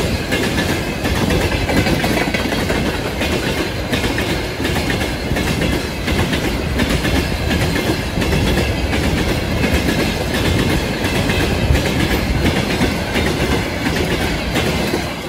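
Freight train of railway tank cars rolling past at speed close by, wheels clattering steadily over the rail joints. The noise starts to fall away near the end as the last cars go by.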